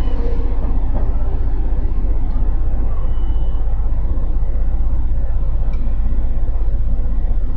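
Motorcycle engine running steadily, with an even low pulsing from its firing.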